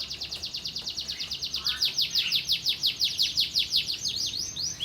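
A songbird singing a long, rapid trill of quick downward-swept notes, about ten a second, with the notes coming a little faster and louder from about two seconds in.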